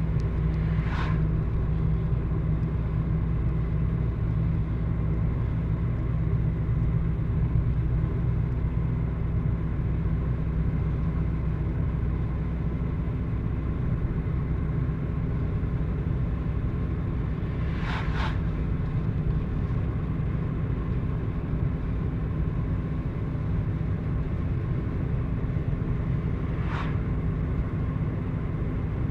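A vehicle engine running with a steady low drone. Three brief higher-pitched sounds cut through it: about a second in, around the middle, and near the end.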